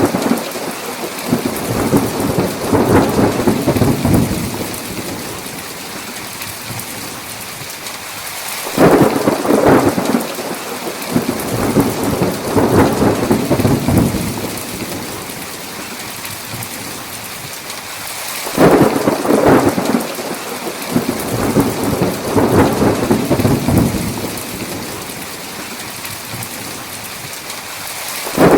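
Heavy rain falling steadily, with thunder breaking in about every ten seconds: each peal starts suddenly and rolls on for four to five seconds before fading back into the rain. The peals repeat in almost the same pattern each time.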